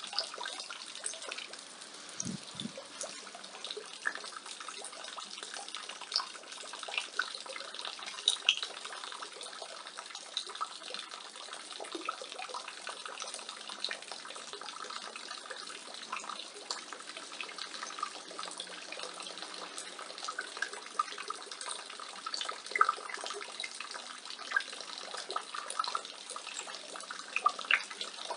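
Rainwater pouring from a roof gutter and splashing, a steady patter with many small irregular splashes and drips; one brief low thump about two seconds in.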